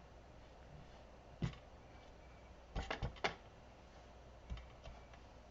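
A few light, sharp taps and clicks of craft supplies set down and handled on a tabletop: a single tap, then a quick group of three, then two fainter ones.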